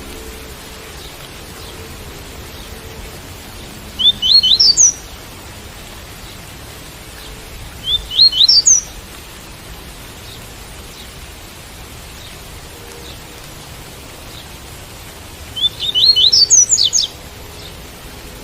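Double-collared seedeater (coleiro) singing the tui-tui song: three short phrases of quick rising whistled notes, spaced a few seconds apart, over a steady hiss of rain.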